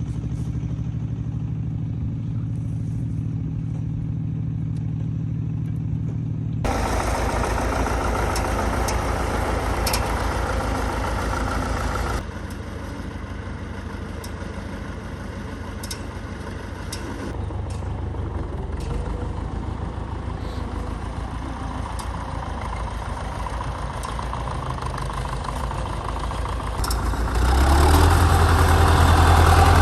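Old tractor engine running steadily. The sound changes abruptly a few times and grows louder near the end.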